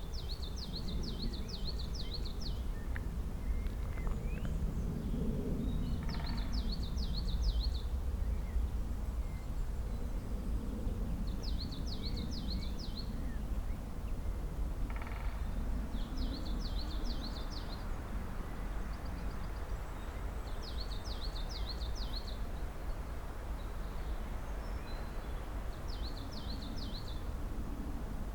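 A small songbird singing the same short, rapid trilled phrase six times, every four to six seconds, over a steady low rumble of background noise.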